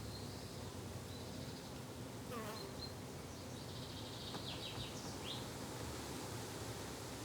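Flying insects buzzing steadily in a summer garden ambience, with a few short bird chirps about halfway through.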